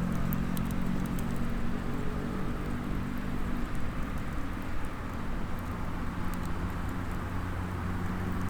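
Small wood fire in a SOTO Mini Hexa fire stand crackling with scattered faint pops, over a steady low hum.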